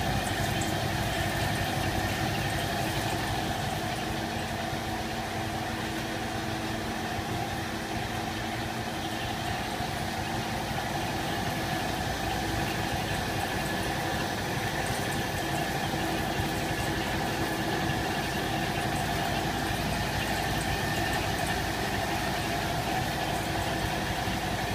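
CNC machine running steadily: a constant mechanical hum with several steady tones that hold their pitch throughout.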